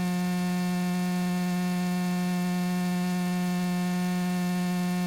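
Steady electrical hum with many evenly spaced overtones, picked up on a Cessna 172's radio/intercom audio feed while the frequency is silent. It holds one pitch without change.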